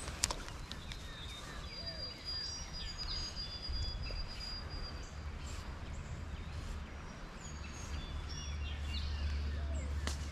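Birds calling outdoors: thin high whistles, one held for a couple of seconds, and short falling chirps, over a steady low rumble. A few sharp clicks, the loudest just after the start.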